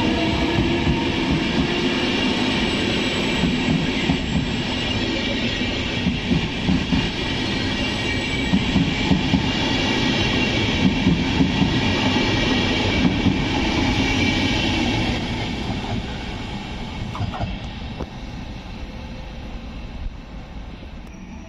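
A train running past on the line through the station, its wheels clattering over the rails. The sound dies away about fifteen seconds in.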